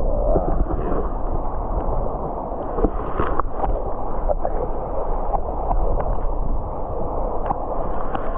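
River water rushing and gurgling close by, steady throughout, with a few light knocks or splashes about three seconds in.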